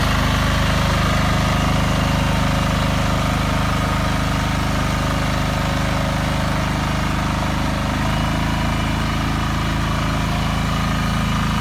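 Engine of a BCS 740 two-wheel walk-behind tractor running steadily, its note changing slightly about eight seconds in.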